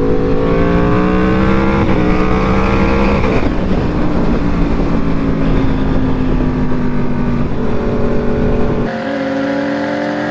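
Straight-piped Aprilia RSV4's V4 engine under way: the pitch climbs under throttle, with a gear change about two seconds in, then drops off at about three and a half seconds and holds steadier, sinking slowly. The low rumble underneath falls away near the end.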